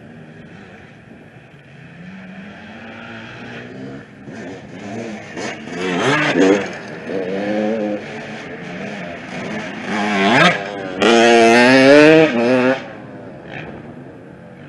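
Off-road racing motorcycles going by, engines revving up and down through the gears. The loudest stretch runs from about eleven to thirteen seconds in, its pitch wavering, then drops away sharply.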